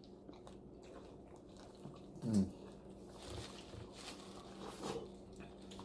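Quiet eating sounds close to the microphone: faint biting and chewing, with a short hummed "mm" that falls in pitch about two seconds in.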